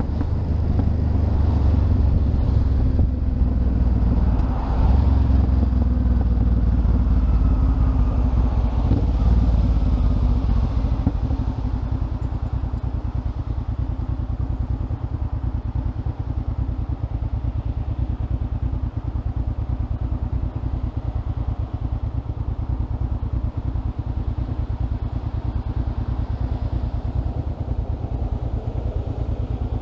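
Motorcycle engine running, louder and more uneven for the first ten seconds or so, then settling into a steady idle.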